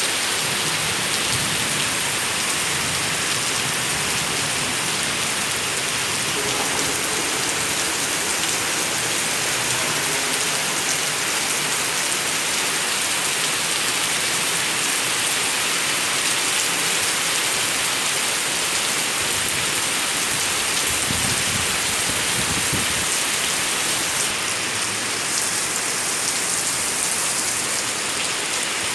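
Steady rain falling, an even hiss of drops on surfaces, with a brief low rumble some twenty seconds in.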